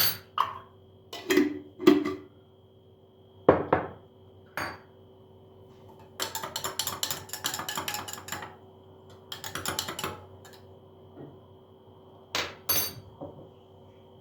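Kitchen dishes and utensils clattering: several separate knocks and clinks, then a quick run of rapid clinks lasting a couple of seconds, a shorter run after it, and two more knocks near the end.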